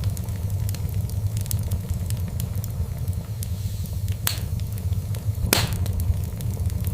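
Fire burning in a fireplace: a steady low rumble with frequent small crackles, and two louder pops about four and five and a half seconds in.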